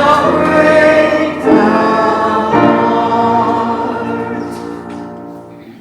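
Church congregation singing the close of a hymn. A few chord changes, then the final chord is held and fades away near the end.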